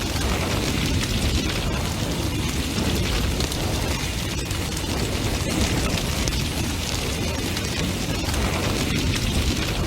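Large bonfire burning hard: a steady low rush of flames with dense crackling and popping throughout.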